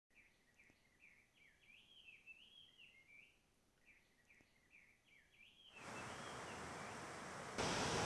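Faint birdsong: short whistled phrases that rise and fall, in two bouts. From about six seconds in, a steady rush of falling water fades in and gets louder just before the end.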